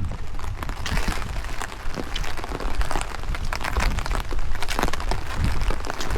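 Rain falling, with many separate drops striking close to the microphone as quick irregular clicks, over a steady low rumble of wind on the microphone.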